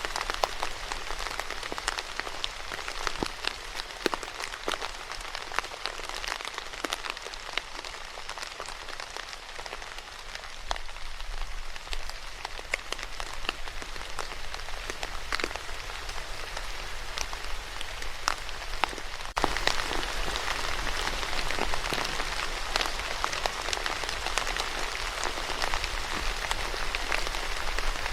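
Steady rainfall, a continuous hiss with many distinct drops striking a surface. About two-thirds of the way through it abruptly becomes louder.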